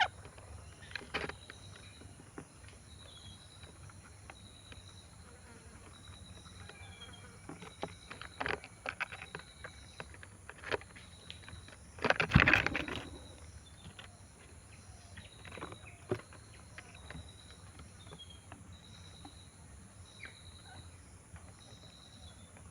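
Insects calling: a regular series of short, even chirps at one pitch over a constant high hiss. Scattered sharp clicks and a louder rustling burst about twelve seconds in.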